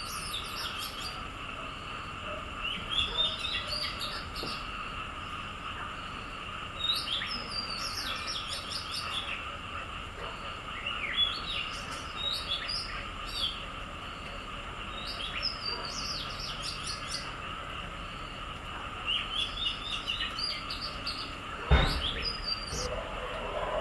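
Small birds chirping in short bursts every couple of seconds over a steady high hum, with a single thump near the end.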